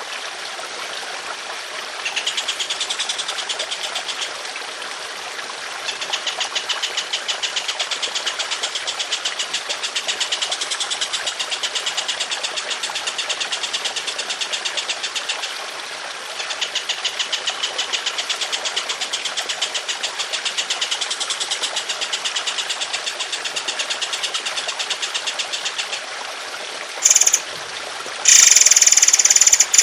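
Songbird masteran audio: long, rough runs of rapid pulsing song, the bird's 'long shots', lasting several seconds each over a steady trickle of water. Much louder, harsh bird calls break in near the end.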